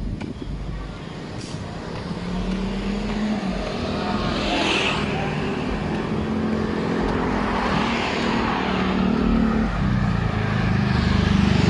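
Motor vehicle engines running close by in street traffic, one holding a steady engine note, then a louder one coming up near the end.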